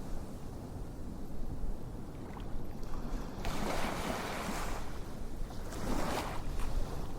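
Ocean waves washing in over a low steady rumble, as an ambient background track: two swells of rushing noise, one in the middle and one near the end.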